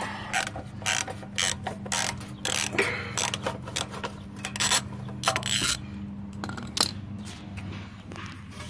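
Hand ratchet clicking in quick runs of strokes as a small bolt is turned out on a Bolens lawn tractor, the clicks thinning out after about six seconds.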